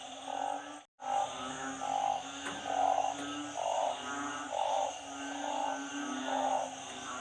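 Frogs calling in flooded ground. One frog gives a loud call about once a second over a steady chorus of other frogs, and the sound drops out completely for a moment about a second in.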